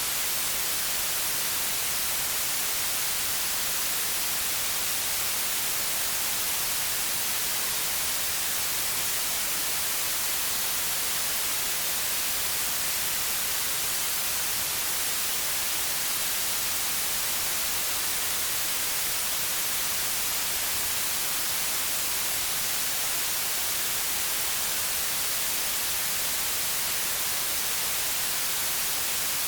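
Steady white noise: an even, unchanging hiss weighted toward the high frequencies.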